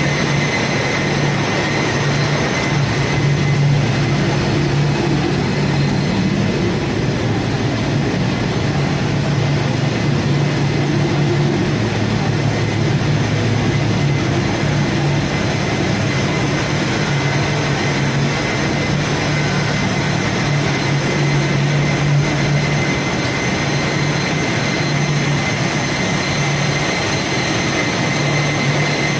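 Engine room machinery running steadily: a loud, unbroken low drone with a thin steady whine above it.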